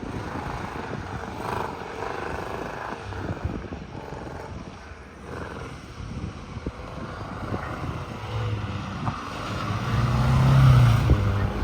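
MGB engine running and revving as the car is driven through tight turns, rising and falling with the throttle and loudest near the end. The engine has been a little misbehaved and doesn't run as cleanly as it might.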